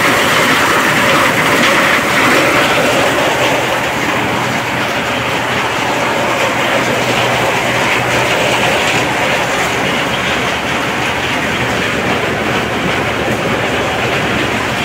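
Motorised corn sheller running, a loud, steady clattering as cobs are shelled into kernels.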